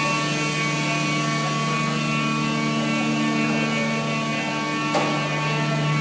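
Peddinghaus CNC saw-drill line running with a steady machine hum made up of several even tones, and a single sharp click about five seconds in.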